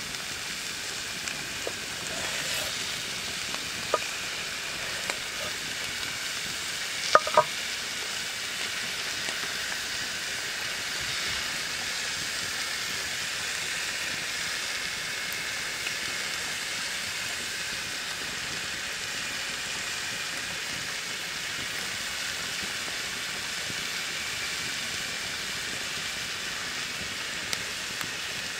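Food frying in hot oil, a steady sizzle, with a few sharp clicks about four and seven seconds in.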